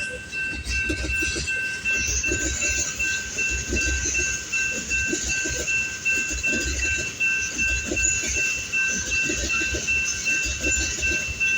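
Tank cars of a fast oil train rolling past, wheels clattering over the rail joints in an uneven stream of low thumps over a steady rushing hiss. Two steady high tones run through it.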